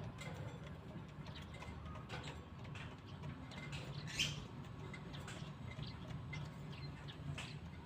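Lovebirds giving short, high-pitched chirps and squeaks at irregular intervals, one louder about four seconds in, over a steady low hum.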